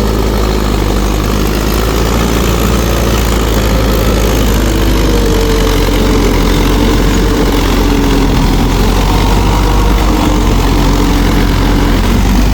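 Mahindra 585 DI tractor's diesel engine running steadily and loud, with no change in speed.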